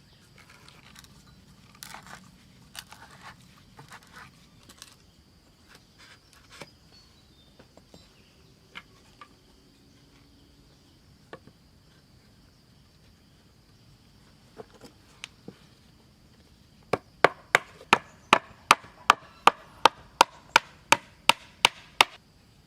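A hand tool chopping into wood: a fast, even run of about sixteen sharp strokes, roughly three a second, in the last few seconds. Before it come scattered light knocks and clicks of wood being handled.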